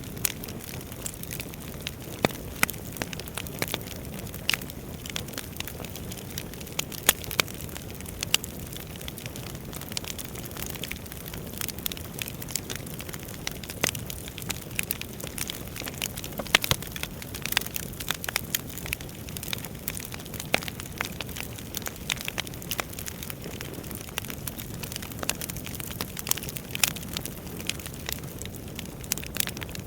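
Wood fire burning in a fireplace, crackling: a steady low rumble of flames with irregular sharp pops and snaps scattered throughout.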